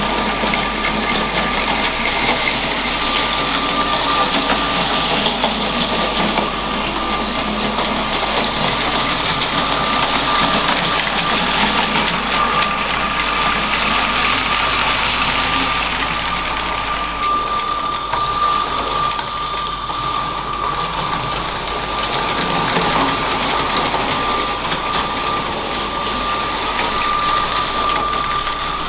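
LEGO train's electric motor running with a steady high whine, its wheels clattering along plastic track, with a few sharp clicks about two-thirds of the way through.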